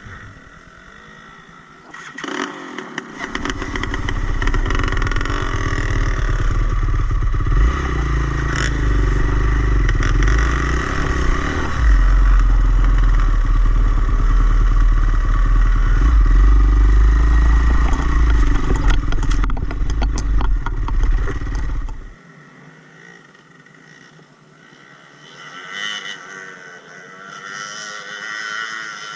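Dirt bike engine running as it is ridden along a trail, with clattering, loud from about two seconds in and dropping off sharply about twenty-two seconds in.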